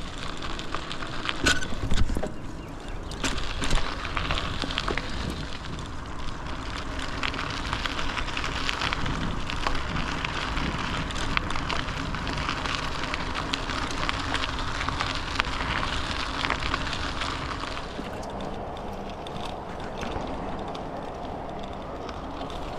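Bicycle riding along a trail: a steady rushing noise of tyres and wind, with scattered clicks and rattles and two louder bumps a couple of seconds apart near the start. The high part of the hiss falls away about eighteen seconds in.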